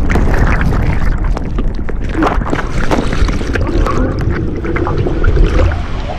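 Loud rushing river water at a waterfall, a dense low roar with wind buffeting the microphone and scattered splashing knocks.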